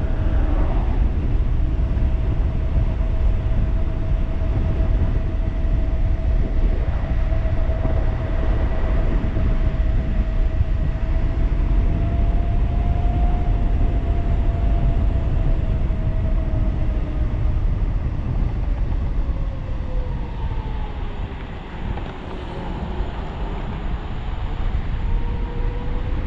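Wind rushing over the microphone on a 1500-watt electric bike at speed, with the motor's thin whine steady, then falling in pitch as the bike slows about 20 seconds in, and rising again as it speeds back up near the end.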